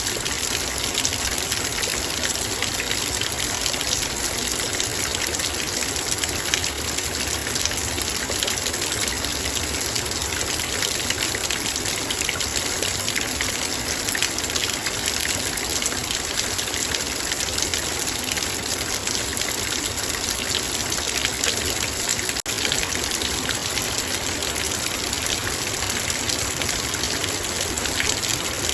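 Heavy rain falling steadily on a metal bowl: a dense hiss of countless drop strikes with fine ticks on top. The sound drops out for a split second about 22 seconds in.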